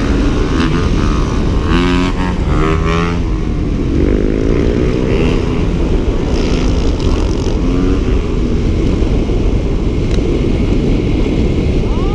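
Dirt bike engine running under a heavy low rumble, its pitch rising briefly about four seconds in.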